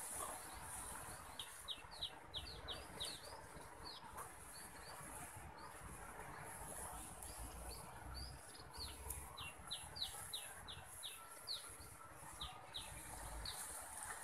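A small bird chirping in quick runs of short, high notes, about three or four a second, in two bouts, one early on and one starting about a third of the way through. A steady high hiss lies underneath.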